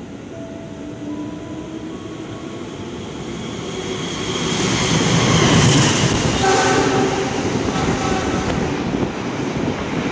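Argo Lawu express hauled by a CC 206 diesel-electric locomotive running through the station at speed. The horn sounds as the train approaches and again as it passes, over a rumble and wheel clatter that grows to its loudest a little over halfway through.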